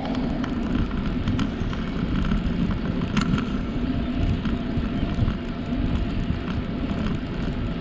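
Riding a bicycle on a trail: a steady low rumble of wind on the microphone and tyres on the path, with a few light clicks and rattles, one clearer about three seconds in.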